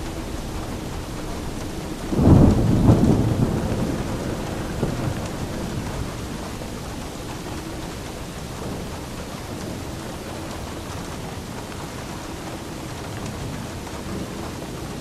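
Steady rain falling, with a sharp clap of thunder a couple of seconds in that rumbles away over the next few seconds.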